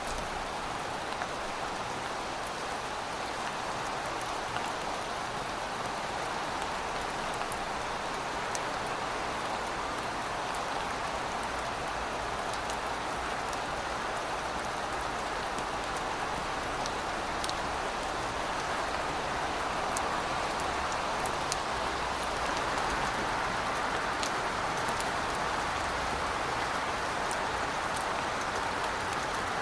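Rain falling steadily in an even hiss, with scattered sharp drop ticks on top and no thunder.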